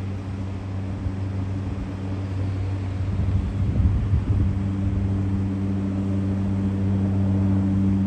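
De Havilland DHC-3 Otter floatplane's engine running at takeoff power during its takeoff run on the water, a steady drone that grows slightly louder.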